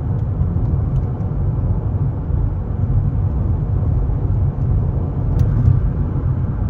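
Road and engine noise inside a moving car at highway speed: a steady low rumble, with a small click about five and a half seconds in.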